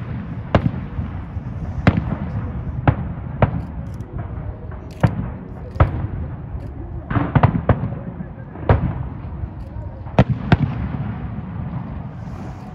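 Aerial firework shells bursting in sharp bangs about every second, with a cluster of several quick bangs about seven seconds in, over a continuous low rumble.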